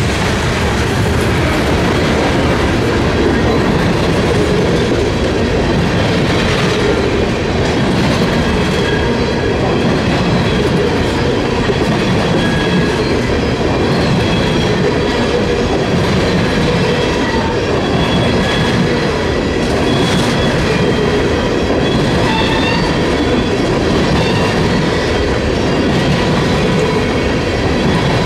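Freight train of hopper and tank cars rolling past, a loud, steady rumble of steel wheels on rail with clicking and faint high squealing tones from the wheels.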